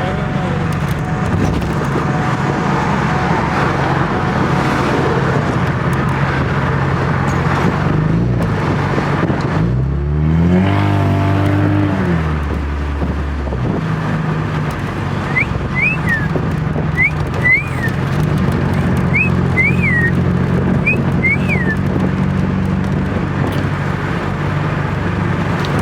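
A car engine running as the car is driven, heard from inside the open-top car. About ten seconds in, the revs climb and then drop back. Several short, high chirps come in the second half.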